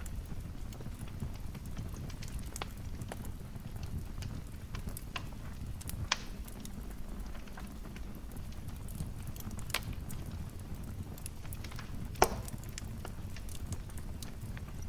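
Wood fire crackling in a fireplace: a steady low rumble of burning with scattered small crackles, and two sharper pops, about six seconds in and a louder one about twelve seconds in.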